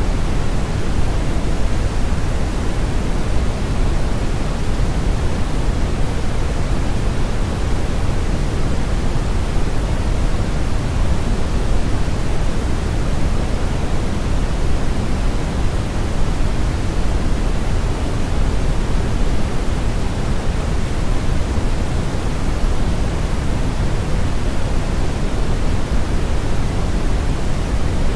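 Steady brown noise: an even, unchanging rumbling hiss with most of its weight in the low end and the highs rolled off.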